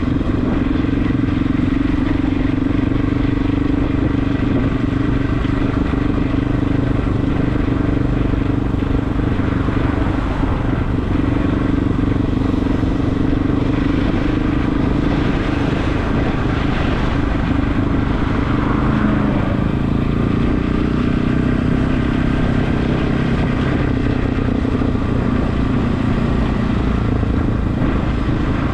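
Regulmoto TE enduro motorcycle engine running steadily under way, with a dense hiss of wind and road noise over it.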